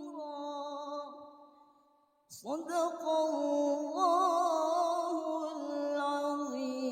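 Melodic Quran recitation (tilawah): a single reciter's voice holds a drawn-out, ornamented note that fades out about two seconds in, then after a short breath a new phrase swoops up and continues in long, wavering held notes.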